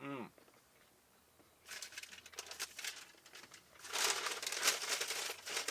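Burger wrapper crinkling and rustling as a slider sandwich is unwrapped, growing louder from about four seconds in. A short falling vocal sound is heard at the very start.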